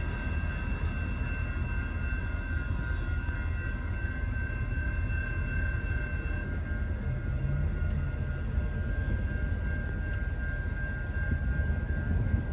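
Amtrak passenger train rolling by: a steady low rumble with thin, high-pitched ringing tones held over it, one of which drops out about halfway through.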